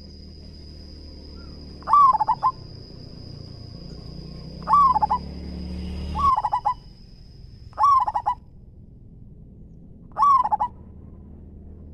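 Zebra dove (perkutut) cooing: five short phrases a few seconds apart, each a quick run of a few notes, over a steady high-pitched whine that stops about eight seconds in.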